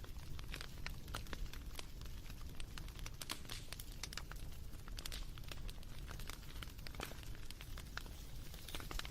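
Wood fire crackling, with frequent sharp pops and snaps over a low, steady rumble.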